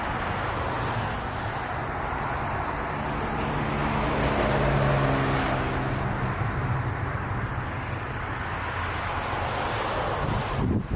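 Jet airliner passing on its landing approach: a steady engine rumble that swells to its loudest about halfway through and then eases off, cut off sharply just before the end.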